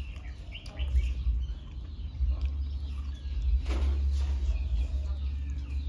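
Birds chirping in short calls over a steady low hum, with one brief sharp chirp or click about halfway through.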